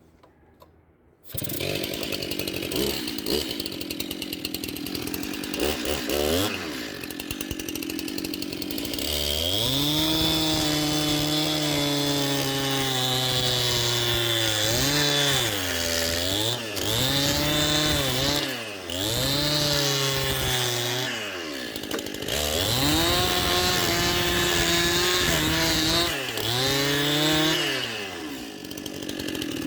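Two-stroke chainsaw driving a belt-driven debarking attachment. It starts up about a second in and runs at a lower speed. It then runs at high throttle, and its engine note dips and recovers again and again as the debarker bites into the wood under load.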